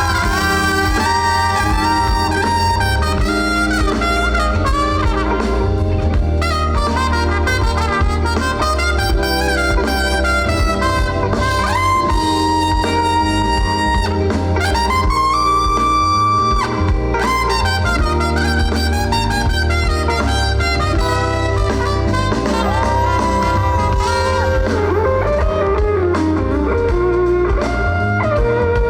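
Live band playing an instrumental break in a pop-rock song: a lead solo line with bending notes over a steady bass.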